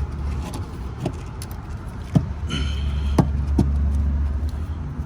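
Semi truck's diesel engine idling with a steady low rumble, with several sharp knocks and clanks and a brief squeaky hiss about two and a half seconds in.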